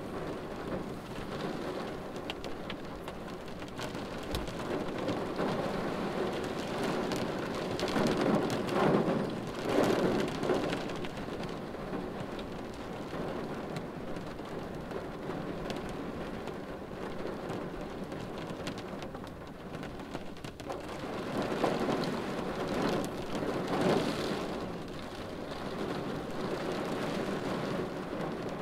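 Steady rain falling on a car windshield, an even hiss of drops. It swells louder twice, for a few seconds each, about eight and twenty-one seconds in.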